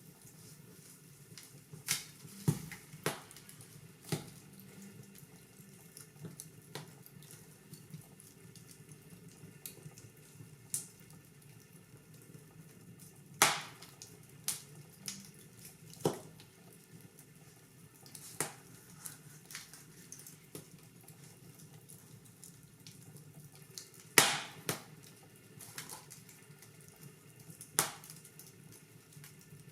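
Wood fire burning in a fireplace: a soft steady hiss broken by sharp, irregular crackles and pops, some much louder than others.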